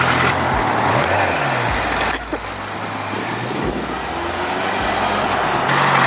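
Engine idling, its pitch sliding up and down about a second in, then a couple of seconds of plain noise before the steady idle comes back near the end.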